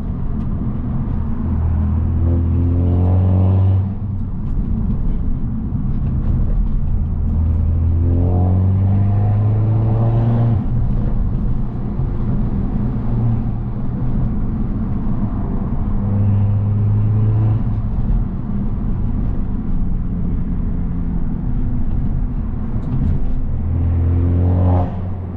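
Straight-piped, turbocharged Mercedes-Benz C250 engine and exhaust under way, the engine note climbing in pitch through the revs about four times and falling back between pulls as it changes gear.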